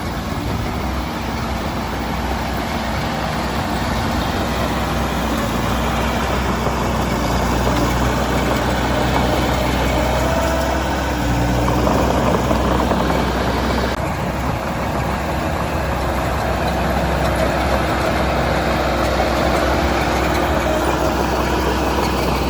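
Heavy diesel engine of a construction machine running steadily, briefly a little louder about halfway through.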